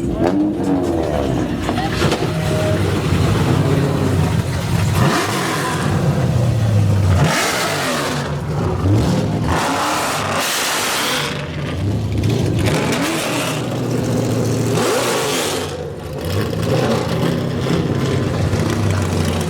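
A car engine revved hard again and again through a loud exhaust, its pitch sweeping up and down with each blip. Several louder rushes of noise come between the revs.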